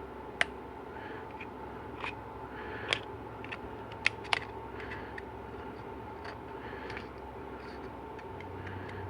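Sharp clicks and small ticks of hand tools working on a 4L80E transmission pump as an old Teflon seal ring is removed from it, over a steady hum.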